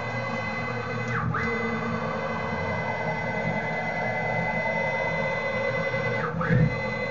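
Fehlmann Picomax 50 CNC coordinate table's X-axis stepper motor driving the table at rapid traverse, a steady whine of several tones over a grinding hum. Twice, about five seconds apart, the pitch plunges and climbs back as the table reverses direction, with a short low thump at the second reversal. The motors make grunting noises but are not losing steps.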